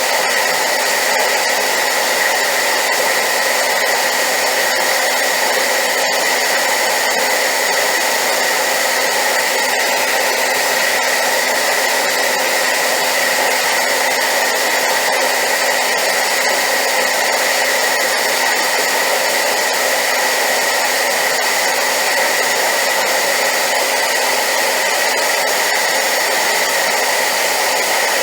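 Hair dryer running steadily at high power, a constant loud rush of air with a steady whine on top.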